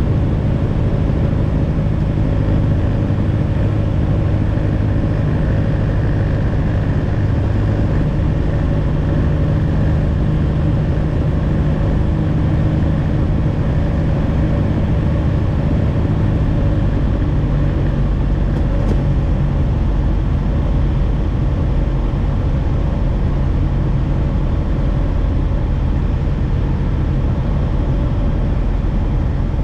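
Light aircraft's piston engine and propeller running steadily, a loud even drone whose note shifts a little about halfway through.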